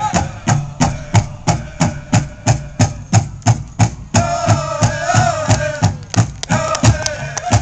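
Pow wow drum group playing a medium-fast song: a big drum struck on a fast, steady beat, with the singers' voices coming in strongly about halfway through.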